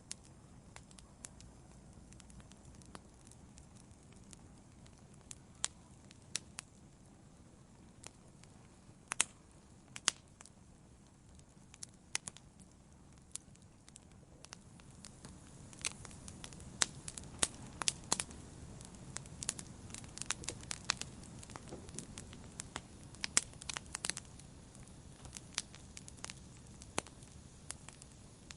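Wood campfire burning, with sharp crackles and pops over the low rush of the flames. The pops come sparsely at first, then grow more frequent and the flames louder about halfway through.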